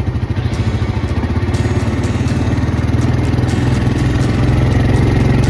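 ATV engine running under way on a trail, a steady low throb that grows gradually louder, with a few light clicks or rattles over it.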